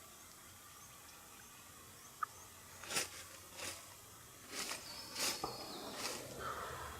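Several short rustles and crunches in dry leaf litter, like footsteps moving through the woods, starting about three seconds in, over faint bird chirps and a brief high whistle.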